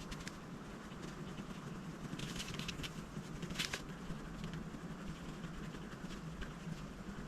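Coloring on paper: light, scratchy strokes of a coloring tool, with a louder run of strokes about two to four seconds in, over a low steady hum.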